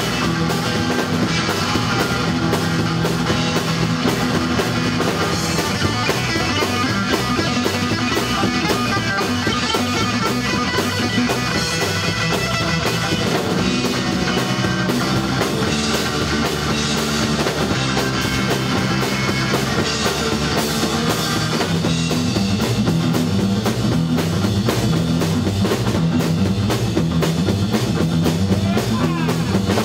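A rock band playing loud with electric guitars and a drum kit keeping a steady beat.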